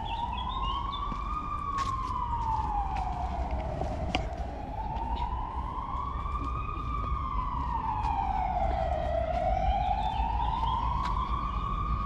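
Emergency vehicle siren wailing, its pitch rising and falling slowly, about once every five seconds, over a low rumble of city traffic.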